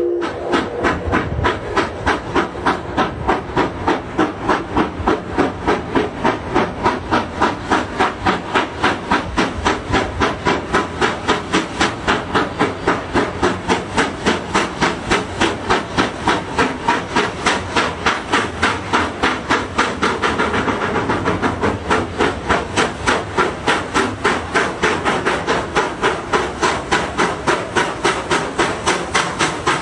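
Steady, evenly spaced hissing puffs, about three a second, in the manner of a steam engine's exhaust.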